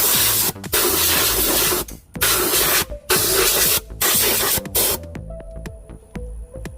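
Five bursts of spraying, each half a second to a second long, cleaning down a Kohler CH20 engine, over electronic background music.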